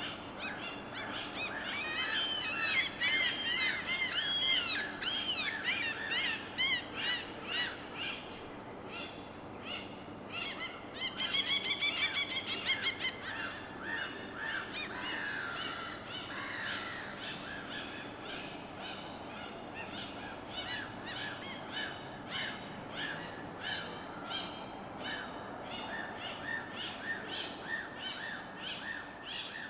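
Many birds calling and singing over a steady wash of water. A warbling song comes in the first few seconds, a fast trill about eleven seconds in, and short chirps continue throughout.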